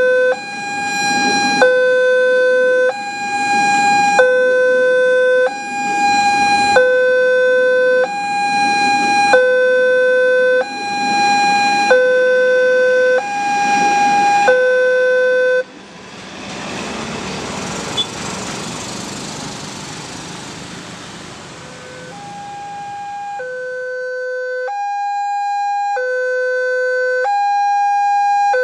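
Railway level-crossing alarm sounding its two-tone warning, a low and a high tone alternating about every second and a half. About 15 seconds in, the alarm cuts off suddenly and a broad rushing noise fills several seconds. The alarm then returns, faint at first and growing louder.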